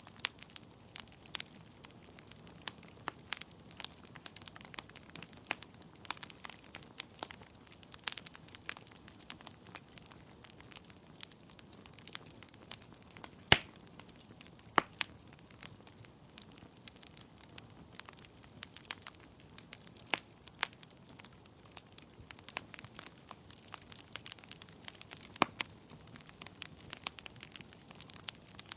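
Wood fire burning in a fireplace: logs crackling with irregular sharp pops over a soft steady hiss, one pop standing out about halfway through.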